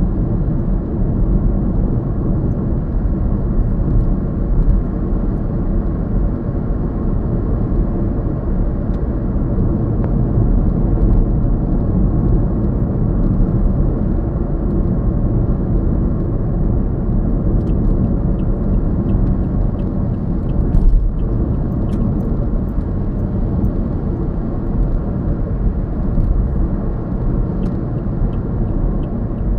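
Steady low rumble of a moving car: engine and road noise with no break.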